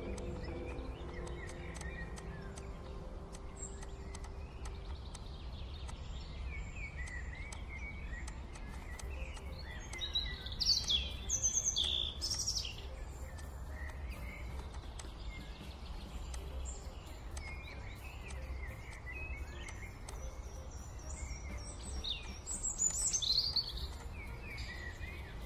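Birds chirping and calling over a steady low rumble of background noise. The calls come in louder clusters about ten seconds in and again near the end.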